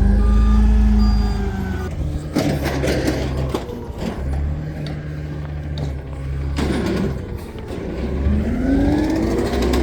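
Yard-waste garbage truck's engine revving up and easing back twice. Between the revs come loud clattering knocks, about two to three and a half seconds in and again about seven seconds in.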